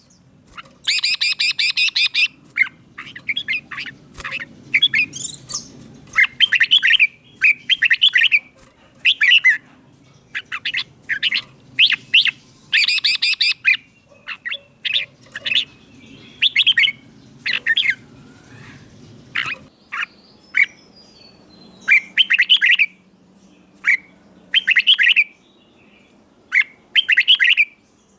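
Red-whiskered bulbul singing: short bright whistled phrases repeated again and again with brief pauses, with a harsh chattering burst about a second in.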